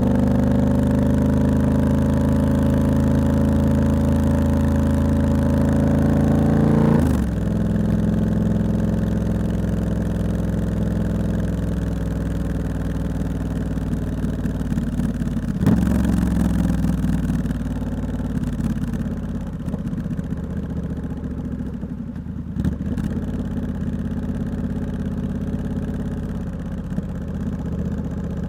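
Triumph Scrambler 1200X's 1200 cc parallel-twin engine through a loud Hitchcox aftermarket exhaust, running under way. The note climbs a little, drops sharply about a quarter of the way in, then carries on lower and gradually quieter, with a couple of brief clicks.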